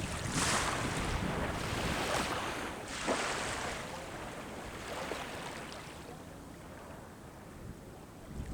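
Sea waves washing onto the shore, with a surge of surf near the start and smaller ones a couple of seconds in, then fading quieter. Some wind buffets the microphone.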